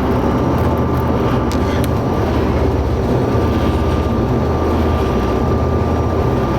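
Hydrofoil ferry under way: a loud, steady drone of its engines, with a thin steady whine above it.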